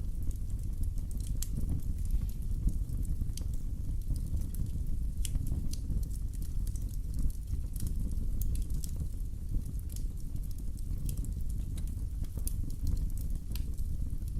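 Wood fire burning in a fireplace, with a steady low rumble and scattered sharp crackles and pops.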